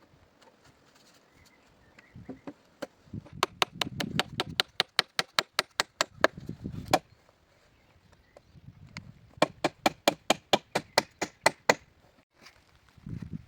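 Two quick runs of sharp strikes of a hand tool on wood, about five a second, with a pause of roughly two seconds between them.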